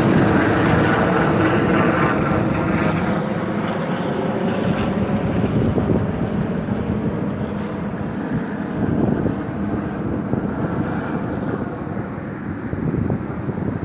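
Helicopter's rotor and engine running steadily, growing gradually fainter.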